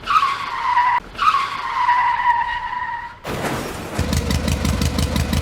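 Two high screeches like tyre squeal, the first about a second long and the second about two, each sliding slightly down in pitch. Music with a steady beat starts just after three seconds in.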